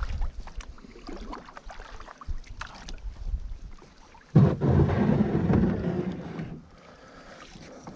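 Canoe on the water with paddling and hull noise, then a sudden louder low rumbling noise from about four and a half to six and a half seconds in.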